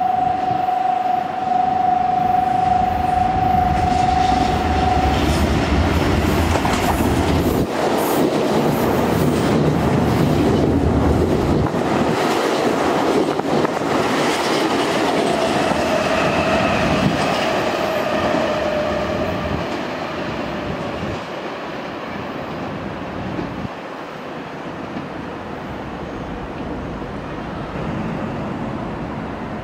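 An electric Nankai train passing through a station at speed. It opens with a steady horn note held for about five seconds, then the wheels clatter over the rail joints as it goes by. A high whine falls slightly in pitch as the sound fades away.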